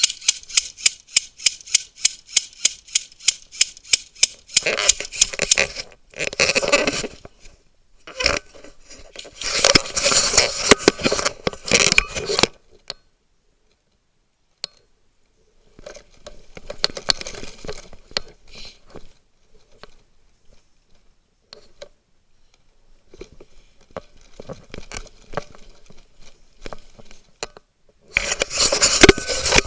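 Airsoft gun fired as a fast string of single shots, about four sharp clicks a second, for the first four seconds or so. Then come bursts of scraping and crunching movement, with a short silent gap in the middle and a louder stretch of it near the end.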